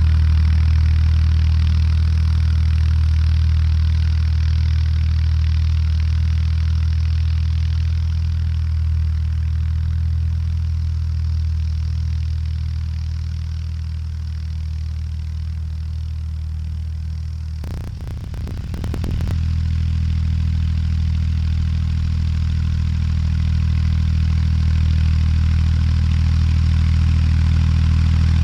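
Tractor engine running steadily while pulling a cultivator, a deep even drone that eases off a little past the middle and comes back up near the end. A brief crackle cuts through about two-thirds of the way in.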